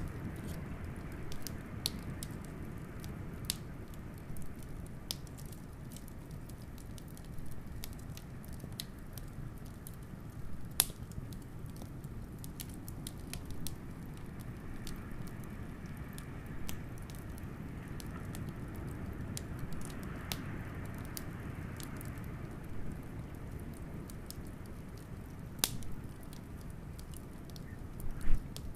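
Wood fire crackling with scattered sharp pops, the loudest near the end, over a steady low rush of blizzard wind.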